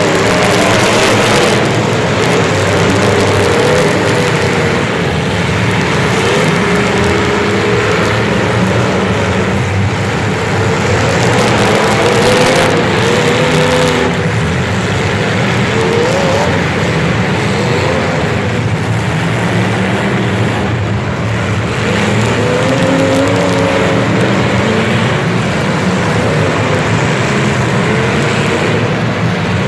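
Engines running, their revs rising and falling, over a steady noisy rush.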